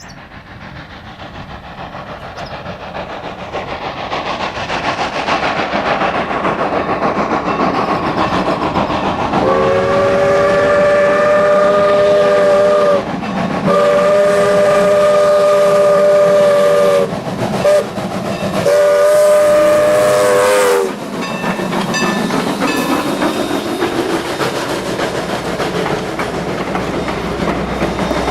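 Norfolk & Western 4-8-0 No. 475 steam locomotive approaching and growing steadily louder, then sounding its chime whistle in a long, long, short, long grade-crossing pattern, followed by the clatter of the train's wheels on the rails as it passes.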